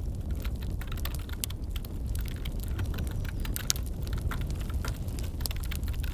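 Wood fire burning with a steady low rumble and irregular sharp crackles, mixed with the clicking of computer keyboard typing.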